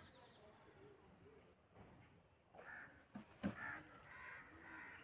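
Faint, repeated bird calls, with a single sharp knock about three and a half seconds in.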